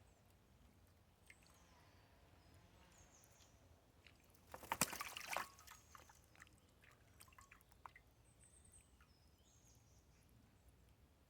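Wood pigeon bathing in shallow water: a burst of splashing about a second long near the middle as it beats its wings in the water, followed by scattered drips.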